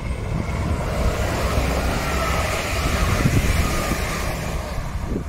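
Irish Rail 22000 Class InterCity diesel railcar passing close by: a rumble of underfloor engines and wheels on rail that starts suddenly and swells to its loudest about three seconds in, with a faint steady whine over it.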